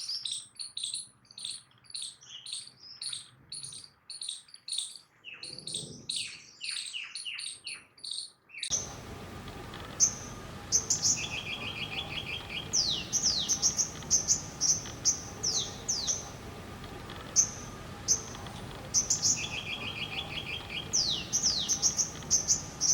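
Small songbirds calling: a run of rapid, high chirps, then, after a cut about nine seconds in, repeated falling whistled notes and short trills over a steady background hiss.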